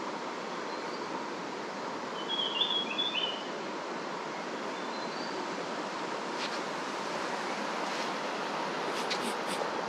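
Creek water running steadily. A bird chirps several times about two to three seconds in, and a few light clicks come near the end.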